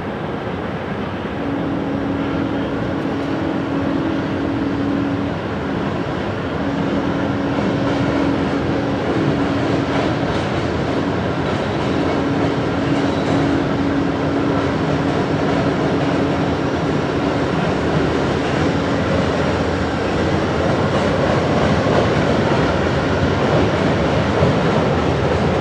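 A train running by with a steady rumble of rolling noise that slowly grows louder. A steady low tone sounds in three long spells over the first twenty seconds.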